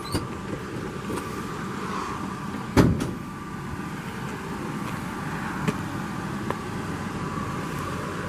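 A truck door shuts once with a thump about three seconds in, over a steady low hum.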